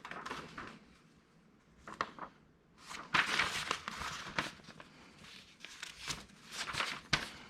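Handling noise from assembling a plotter stand: stretches of rustling and crinkling with a few sharp clicks, about two seconds in and again near the end.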